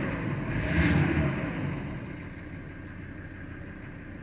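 VW Crafter 2.5 TDI five-cylinder diesel engine running shortly after a cold start. It swells briefly about a second in, then settles to a steady, lower idle. A thin high whistle rises and then slowly falls over the first three seconds.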